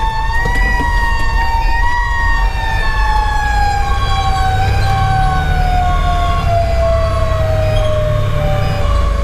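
Fire engine siren slowly winding down in pitch, heard from inside the cab over the low rumble of the truck's Detroit Series 60 diesel and road noise. Short alternating high-low tones repeat about once a second alongside it.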